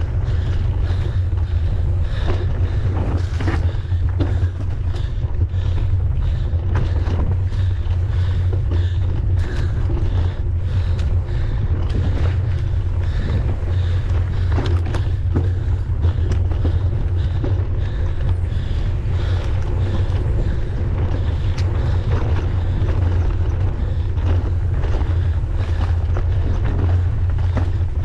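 Wind buffeting the microphone of a camera on a mountain bike as it is ridden, a loud steady low rumble. Frequent clicks and rattles come from the bike over rough trail.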